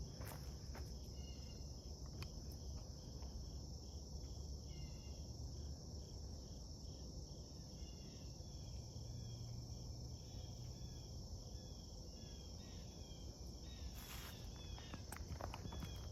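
A steady, high-pitched drone of insects, with short repeated chirps over it. A few footsteps crunch on the creek bed near the end.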